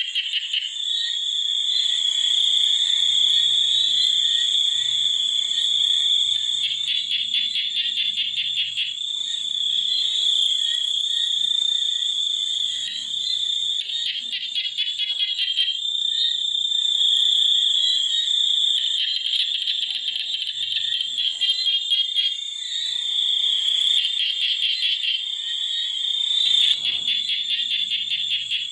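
Chorus of frogs and insects: a steady high-pitched insect drone, with rapid pulsing trills that come and go over it.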